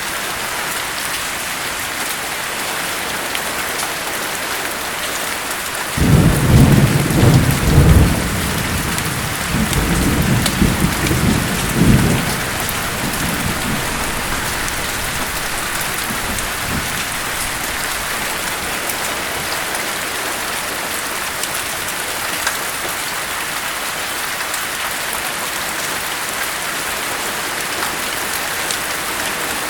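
Steady rain with a clap of thunder that starts suddenly about six seconds in and rumbles low for about six seconds in two swells before fading back into the rain.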